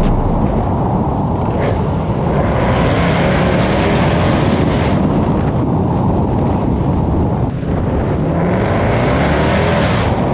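V8 car driving at speed, heard from on board: a steady loud engine drone mixed with road and tyre noise, the engine note rising gently a few times toward the middle and later on.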